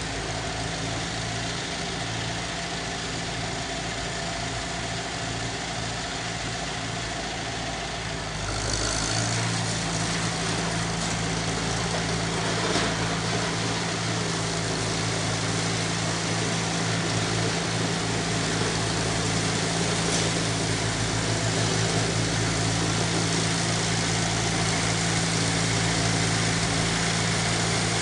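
International 2444 tractor's engine running steadily, with a freshly cleaned carburetor and new ignition points. About eight seconds in it gets louder and then holds steady.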